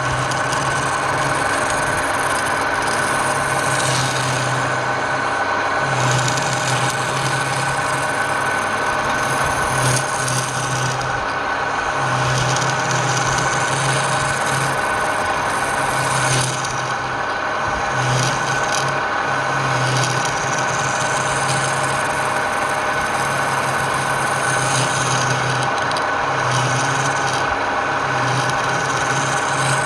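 Wood lathe running, with a turning tool cutting into the spinning wood: a steady motor hum under a continuous scraping noise, and a low drone that keeps coming and going.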